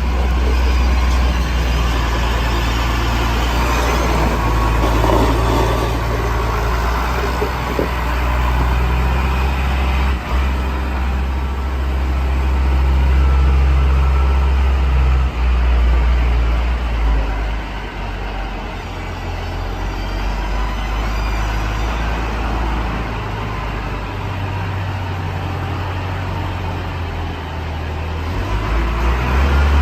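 Diesel tractor engine running steadily, with a deep, constant hum; it drops somewhat in level past the middle and comes back up near the end.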